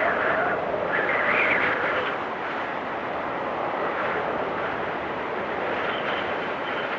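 Blizzard wind blowing steadily, with two stronger gusts swelling in the first two seconds before easing off.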